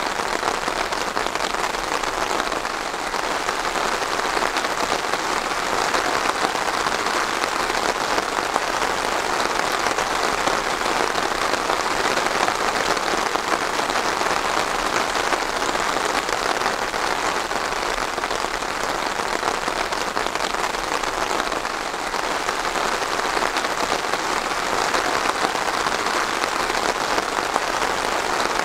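Steady rain falling and pattering on a surface, a dense even patter without a break.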